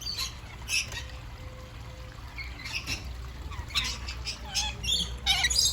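A flock of parrots giving short, harsh screeching calls every second or so, more frequent near the end.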